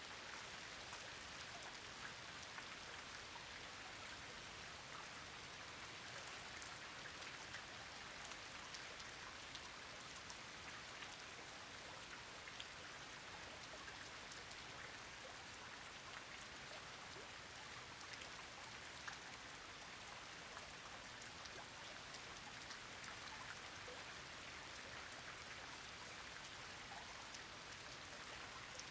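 Steady rain falling, an even hiss of rainfall dotted with many small ticks of individual drops striking a surface.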